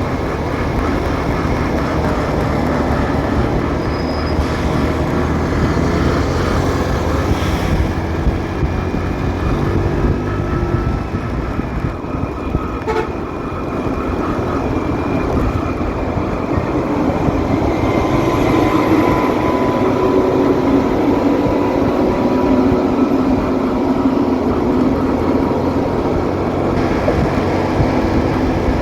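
Motorcycle riding through city traffic: steady engine and road noise, with other traffic passing.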